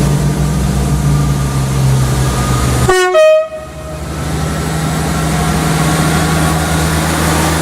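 Diesel train engine running steadily, with a brief, very loud two-note horn blast about three seconds in.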